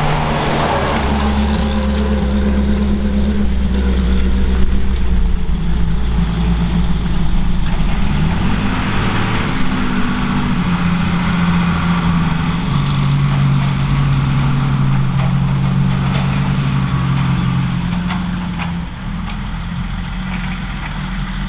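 Heavy vehicle engine running at idle, its speed shifting a few times.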